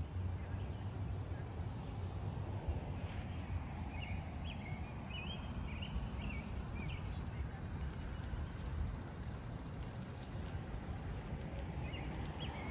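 Outdoor ambience of birds chirping in short calls, mostly about four to seven seconds in and again near the end, over a steady low rumble.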